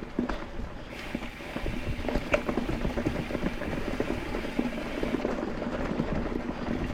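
Mountain bike rolling over a rough dirt trail: tyres crunching over dirt and stones, with the bike rattling and clicking over the bumps.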